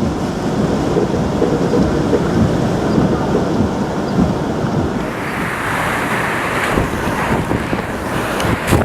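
Hurricane-force wind buffeting the microphone with a heavy low rumble. About five seconds in, a louder hissing gust of wind-driven rain sweeps in.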